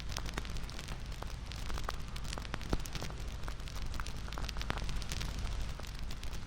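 Wood fire crackling: a steady hiss and low rumble with frequent irregular sharp pops and snaps.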